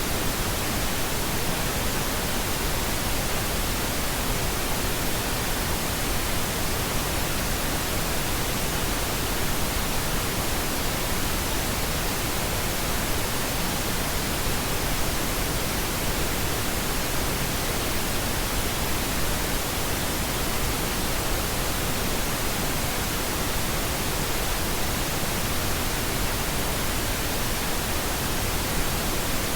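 Steady synthetic pink noise: an even, unchanging hiss spread across all pitches, with no events or changes.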